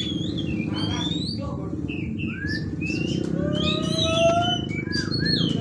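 Several oriental magpie-robins (kacer) singing at once: overlapping chirps, quick whistled phrases and long rising whistles, over a steady low hum.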